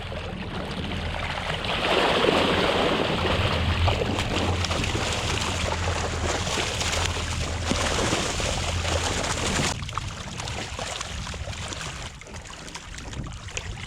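Water splashing and dripping over a steady low idle hum from the boat's outboard motor. The water noise is loudest for most of the stretch, then drops off sharply about ten seconds in.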